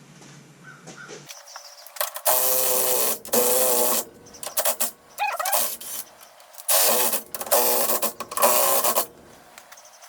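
A power impact wrench running bolts in four short bursts of about a second each, its motor whining under load, on the front suspension being fitted with a lowering kit.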